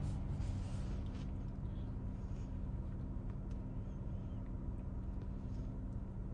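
Steady low hum of a car's engine running, heard inside the cabin, with faint rustling of a tissue rubbing a newborn kitten.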